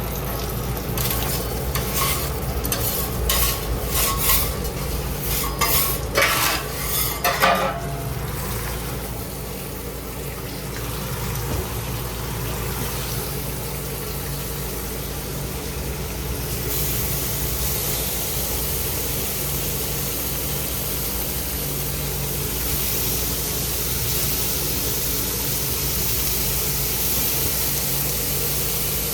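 Food sizzling as it fries on a hot cooking surface, with a metal utensil scraping and clinking against it during the first several seconds. The sizzle grows louder and stays steady from a little past halfway.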